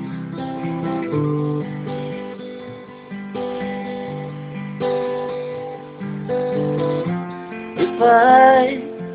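Acoustic guitar playing an instrumental passage, a run of plucked and strummed notes ringing one after another. Near the end a short, wavering held note rises loudly above it.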